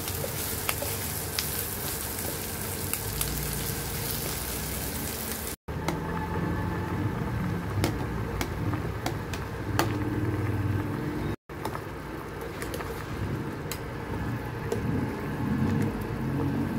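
An omelet sizzling in hot oil in a frying pan, scraped at with a spatula; after a cut about five seconds in, a small pot of soup bubbling at the boil, with scattered light clicks and clinks of a dish and spoon against the pot.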